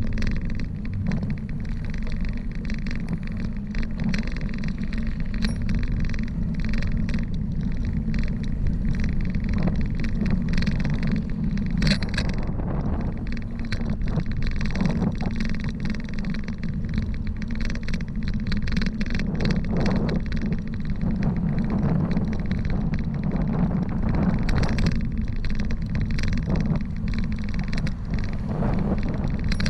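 Wind rushing over the microphone on a bicycle ride downhill, a steady low rumble, with frequent small rattles and knocks from the bike on the road.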